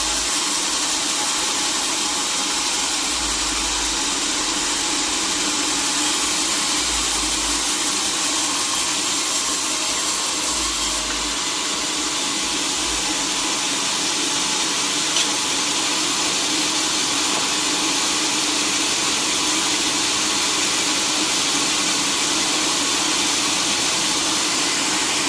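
Sawmill machinery running steadily: a continuous, hissing mechanical noise with no breaks, its tone shifting slightly a little under halfway through.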